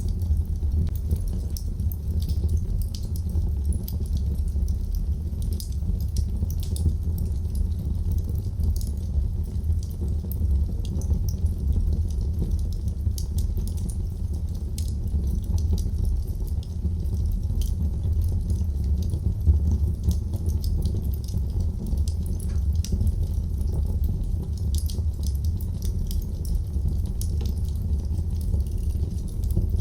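Wood fire burning in a fireplace: a steady low rumble of the flames, with frequent small, irregular crackles and pops from the burning wood.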